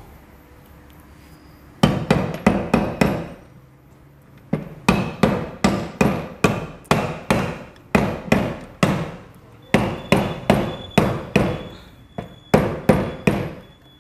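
Hammer tapping a motorcycle engine's bearing and crankcase into place during reassembly. The blows come in runs of about three a second, each ringing briefly, with short pauses between the runs.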